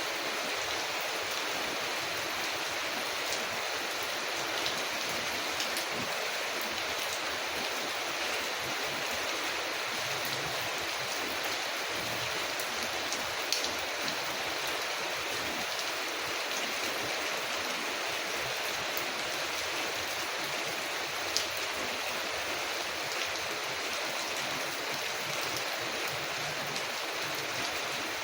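Steady rain falling, an even, unbroken hiss, with a few scattered sharp clicks, the clearest about halfway through and again about three quarters of the way through.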